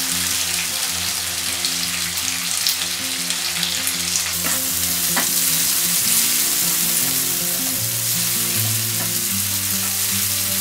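Hot oil sizzling steadily around freshly added chopped tomatoes and green chillies in a nonstick frying pan, the tempering for a South Indian lentil curry. A spatula stirs the pieces and clicks and scrapes against the pan.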